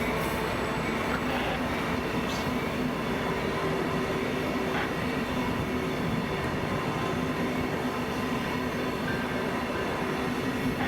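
Train rolling past steadily: continuous noise of wheels on rail with a steady hum of several tones underneath.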